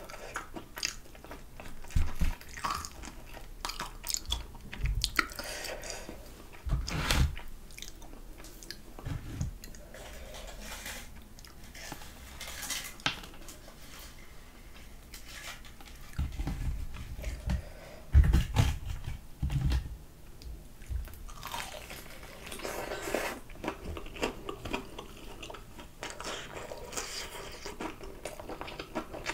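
Close-up chewing and crunching of crisp fried chicken coating, with bites and the small crackles of eating. A few heavier low knocks come a little past halfway.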